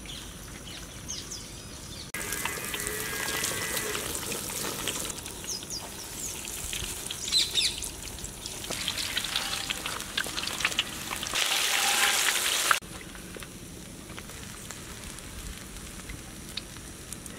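Potato cheese balls deep-frying in hot oil in a large wok: a steady hissing sizzle that jumps louder about two seconds in, is loudest just before thirteen seconds, then drops back abruptly.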